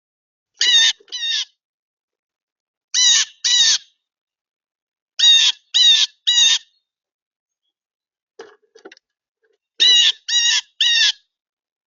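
A bird giving loud, harsh calls in short bursts of two or three.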